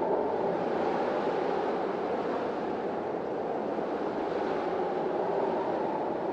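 Steady rushing noise of strong wind, even and unbroken throughout.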